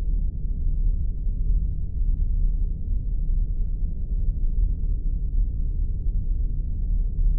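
Spaceship sound effect: a steady, deep rumble with its sound held low and muffled, without distinct events.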